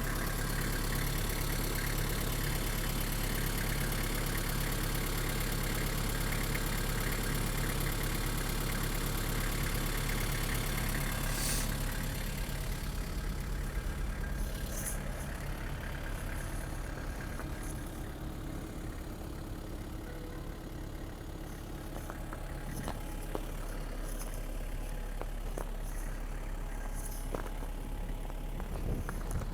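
Nissan TD27 2.7-litre four-cylinder diesel idling steadily. About twelve seconds in the sound becomes quieter and duller, with a few short clicks.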